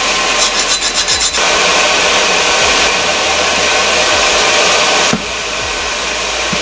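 Steady, loud rasping of a power tool working metal, easing slightly about five seconds in.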